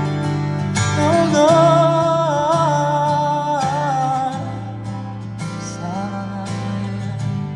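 Live pop-ballad performance: acoustic guitar strumming in a steady rhythm. A sustained melody line with vibrato and small pitch bends rides over it from about a second in until about four and a half seconds.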